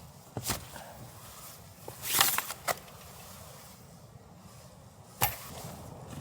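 A few scattered sharp knocks and a brief rustle: small clicks near the start, a louder rustle about two seconds in followed by a click, and one sharp knock a little past five seconds.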